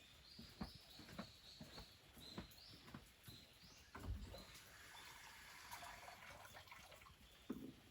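Faint high chirps of small wild birds, a quick string of short notes, several rising in pitch, through the first half, with scattered soft taps.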